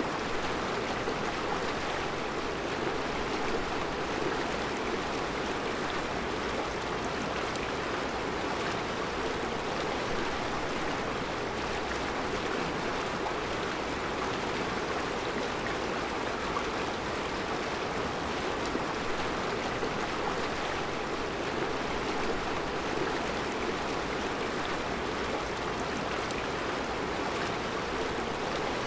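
Mountain river flowing over round rocks in a rocky bed: a steady, unbroken rush of running water.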